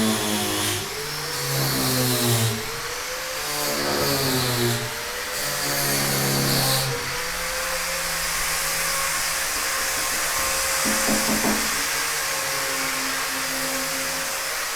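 Power tool at work on timber construction, its whine rising and falling in pitch for the first several seconds, then running at a steady pitch.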